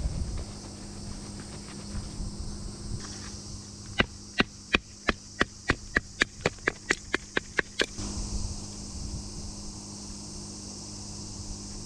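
Firewood being split by hand: a quick run of about sixteen sharp knocks on wood, coming gradually faster, in the middle of the stretch.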